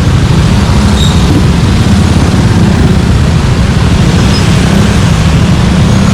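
Suzuki Gixxer 155's single-cylinder engine and exhaust running steadily, a loud low rumble with no revving.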